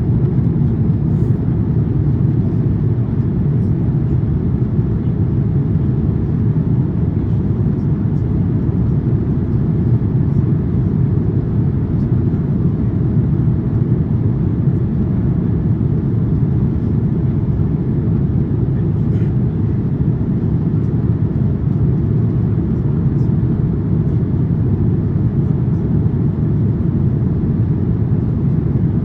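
Steady low roar inside the cabin of an Airbus A350-900 in flight: airflow and its Rolls-Royce Trent XWB engines heard from a window seat.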